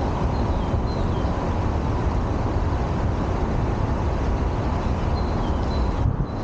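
Steady traffic and road rumble mixed with wind buffeting the microphone, heaviest in the low end. A few faint, short high chirps come through near the start and again about five seconds in.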